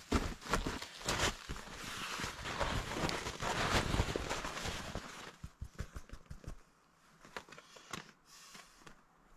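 Several sharp knocks and rustling for about five seconds, then quieter, with scattered light clicks and taps.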